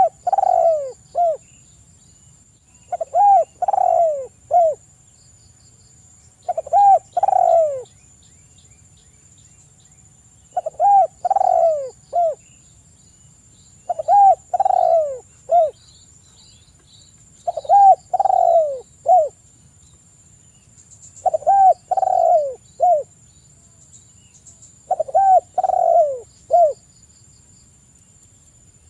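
Spotted dove (tekukur) cooing its three- to four-note call, the phrase repeated evenly about every three and a half seconds, eight times in all. Each phrase is a run of short falling coos with the last note set slightly apart.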